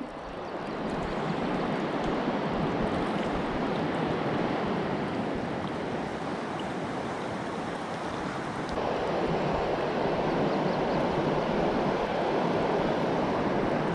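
Steady rushing of a flowing mountain river.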